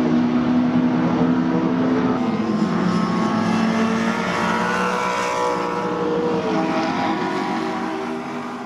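Race car engines running hard at high revs. The pitch steps down about two seconds in and again near the end.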